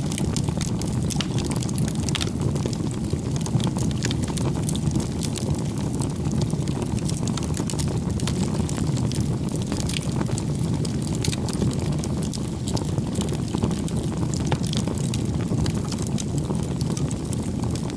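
Wood campfire burning, a steady low rush of flame dotted with many small sharp crackles and pops.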